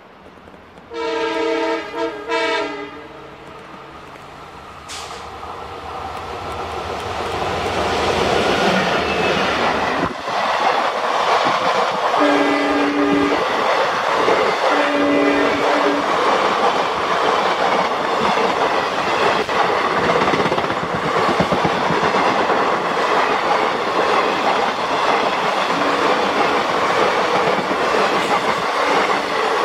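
A WDP4 diesel locomotive sounds its horn, one loud blast broken briefly twice, as it approaches. Its engine and train then rush past at speed, the coaches' wheels clattering over the rail joints. Two shorter, lower horn notes sound a few seconds apart partway through.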